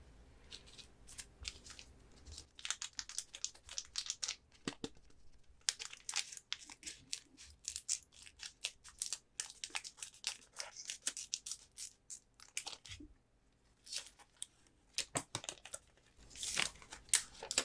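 Foil Pokémon booster pack wrapper crinkling and tearing, in many short, sharp crackles with a brief lull about two-thirds of the way through.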